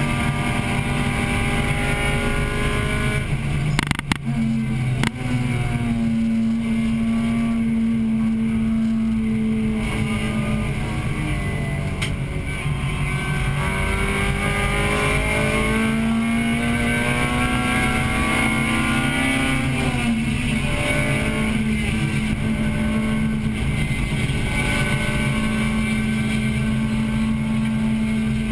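In-car sound of a 1998 Acura Integra Type-R's four-cylinder VTEC engine under race load. Two sharp breaks about four and five seconds in are followed by engine pitch that sinks and climbs again, with an abrupt change about twenty seconds in.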